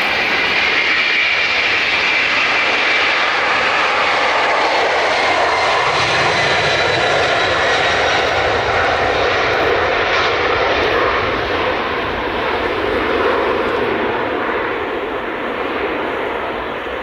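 Boeing 747 jet engines passing close by: a loud, steady rush with faint whining tones that slowly drop in pitch, the deep rumble strongest midway and the whole sound fading toward the end.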